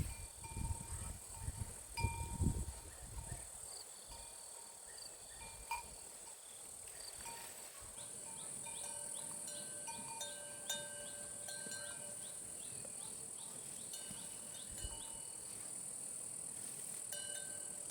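Insects buzzing steadily at a high pitch, with scattered short chime-like tones and some low thumps in the first few seconds.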